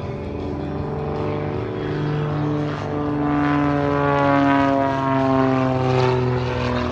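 Propeller airplane flying past, its engine drone loudest about halfway through and dropping in pitch as it goes by.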